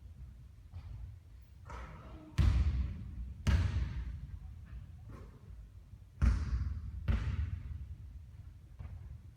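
Basketball bouncing and hitting hard surfaces during shooting practice: a series of irregular heavy thuds, some loud and some faint, each fading out over a moment.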